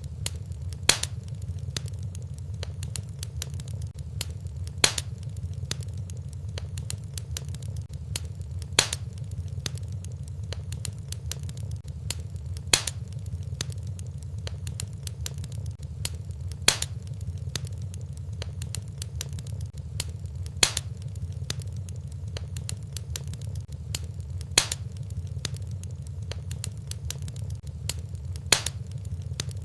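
Wood fire burning in a fireplace: many small crackles over a steady low rumble, with a sharp pop about every four seconds.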